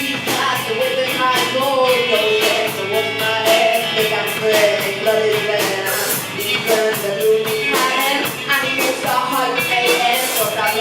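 A live rock band playing a song, with electric guitar over a drum kit keeping a fast, steady beat.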